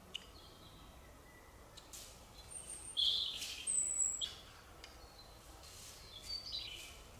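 Birds chirping: short high calls, loudest in a cluster about three to four seconds in, over a faint steady background.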